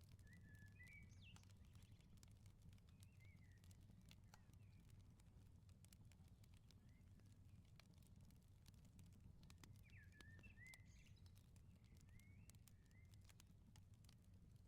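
Faint wood fire crackling with many small scattered pops, over a low steady rumble. Short chirping bird calls come near the start and again about ten seconds in.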